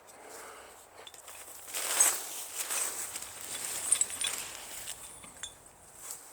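Footsteps crunching and rustling through dry leaf litter and brush, irregular, loudest about two seconds in.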